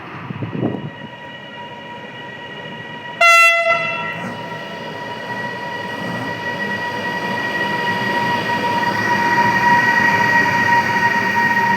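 A train horn sounds one short, loud blast about three seconds in. Then a steady high whine and rising rumble grow louder as a train approaches.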